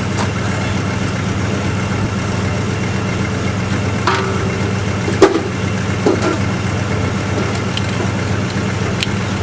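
A 1974 Dodge engine idling steadily, warming after a cold start; the owner takes it to have a cracked exhaust manifold. A sharp knock sounds about five seconds in, with a few lighter clicks around it.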